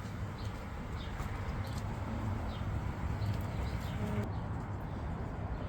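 Faint, scattered bird chirps and calls over a steady low background rumble.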